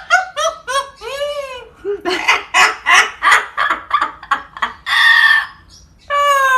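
Pet parrot giving a rapid string of short, pitched squawking calls, many of them arching up and down in pitch. A longer call comes about five seconds in, then a short pause before the calling starts again.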